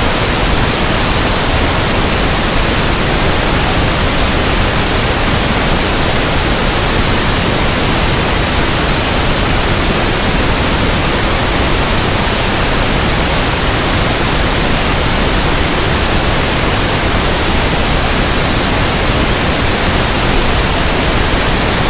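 Steady synthetic pink noise: an even, unchanging hiss across the whole range, ending abruptly at the very end.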